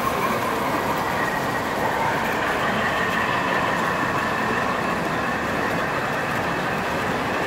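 Steady din of a busy train-show hall, with model trains running on the layouts and a faint held whine over the general noise.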